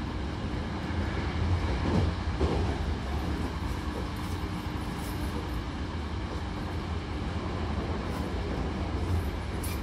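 Hankyu Kyoto Line train running at speed, heard from inside the carriage: a steady low rumble of the wheels and running gear with a faint steady hum over it.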